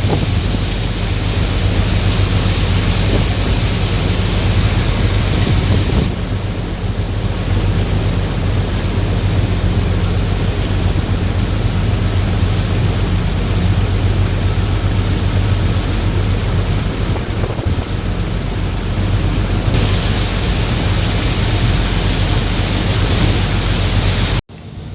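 Heavy rain and wind over a steady low machinery hum. The hiss is heaviest for the first six seconds and again near the end, then cuts off sharply just before the end.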